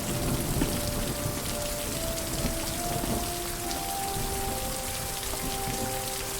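Steady rain falling, with soft music of slow, held notes playing under it.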